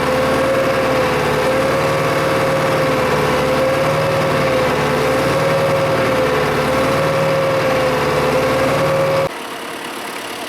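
Tractor engine running steadily with a prominent whine that wavers slightly in pitch. About nine seconds in the sound drops suddenly in level and the whine stops, leaving a quieter running sound.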